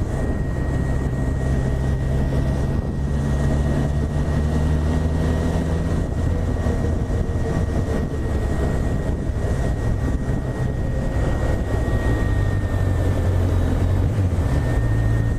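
Honda CB1000R's inline-four engine running at low, steady revs while the motorcycle is ridden, with road and wind noise. The engine note shifts about six seconds in and again near twelve seconds.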